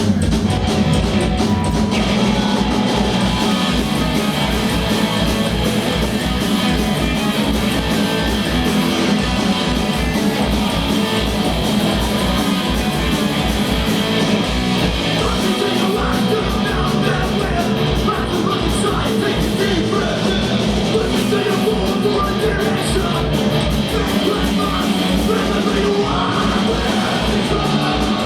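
Punk rock band playing live, loud and steady: distorted guitars over a fast, driving kick drum, with singing in the second half.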